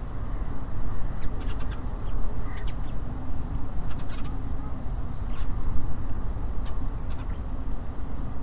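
Small songbirds at a bird feeder giving short, high chirps and calls every second or so over a steady low rumble.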